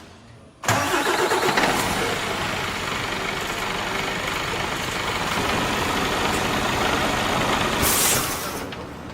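A Mercedes Actros truck's diesel engine starting abruptly and running. A short hiss sounds near the end before the level drops.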